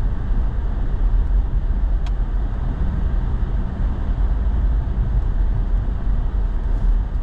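Steady low rumble of a truck's engine and tyres rolling over a packed-snow road, heard from inside the cab.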